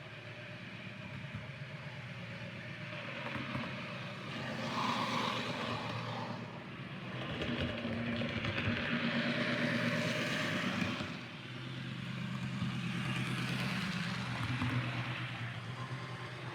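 OO gauge model train running on the layout's track: a steady motor hum under wheel-on-rail rumble that grows and fades three times as it passes close by.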